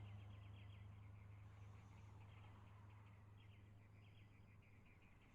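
Faint outdoor ambience: rapid high chirping in short runs over a steady low hum, the whole fading down toward the end.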